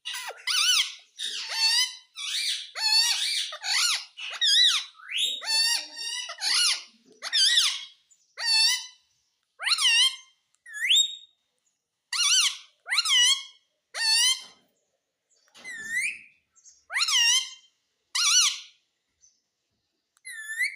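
Pet parrot giving a long series of short, shrill calls that sweep up and down in pitch, coming thick and fast at first and then about one a second.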